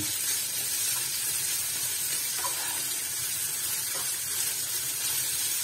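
Trout pieces sizzling steadily as they fry in oil in a frying pan, turned now and then with a plastic spatula, over the rushing fan of a kitchen range hood.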